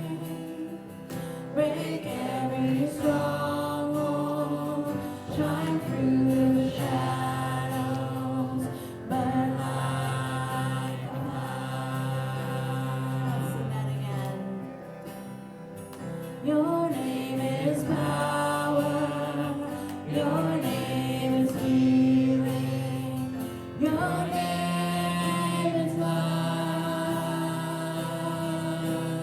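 Gospel music with a group of voices singing slow, long-held phrases over a steady sustained accompaniment.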